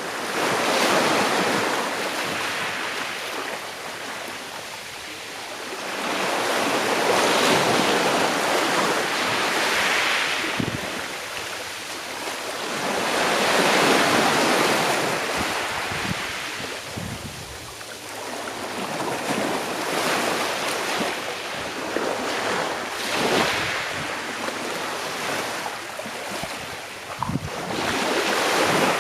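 Sea waves washing onto the shore in slow swells, each rising and falling over several seconds. A few brief low buffets of wind hit the microphone.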